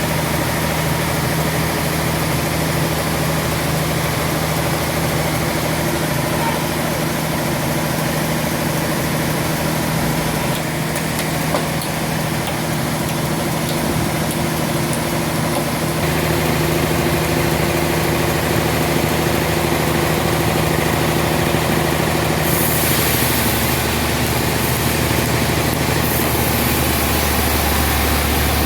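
Sawmill machinery running with a steady engine hum; its tone shifts abruptly several times, and a higher hiss joins in during the second half.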